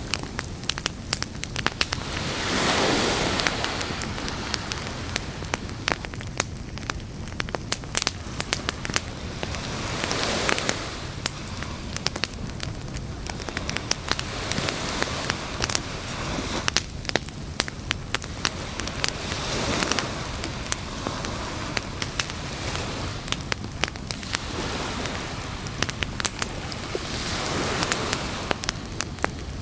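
Campfire crackling, with frequent sharp pops at irregular moments over a steady hiss that swells and fades four times.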